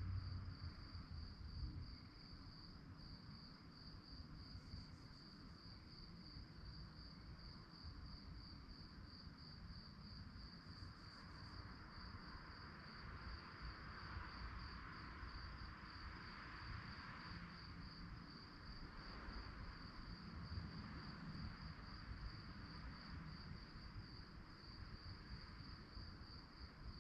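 Crickets chirping at night in a steady run of evenly spaced high-pitched chirps, faint, over a soft background hiss that swells a little midway.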